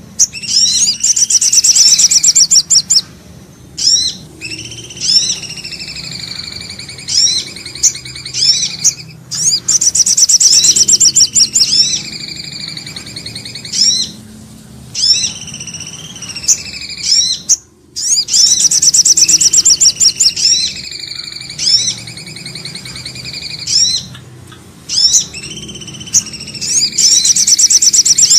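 Bird-lure recording of small songbird calls, sold as those of the common iora (cipoh) and a sogok ontong sunbird. Fast high trills, sharp chirps and lower sliding whistles, with the same sequence repeating about every nine seconds as a loop.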